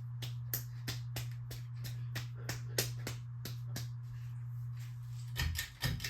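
Encon Crusader ceiling fan running at full speed: a steady motor hum with an even ticking about three times a second. Near the end there are a few louder knocks, and then the ticking stops.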